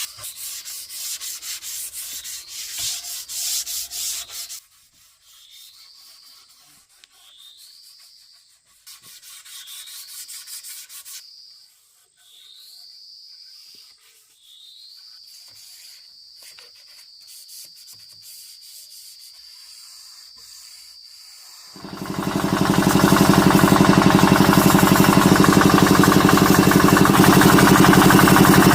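Wood being sanded by hand, quick rubbing strokes, for the first four seconds or so. Then a quieter stretch with high rising chirps every second or two that settle into a steady high note. About 22 seconds in, a loud motor starts and runs steadily.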